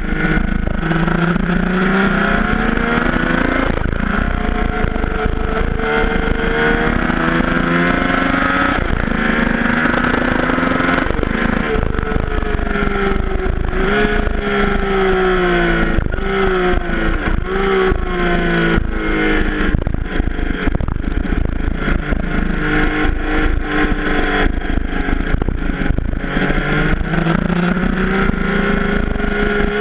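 Yamaha FJ-09's three-cylinder engine at speed, its revs repeatedly climbing and then dropping back. Wind rushes and buffets over the microphone throughout.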